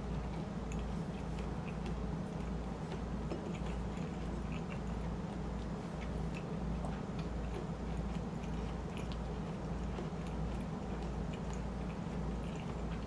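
Close-miked chewing of shrimp chili and rice: many small, wet mouth clicks and squishes, scattered unevenly, over a steady low hum.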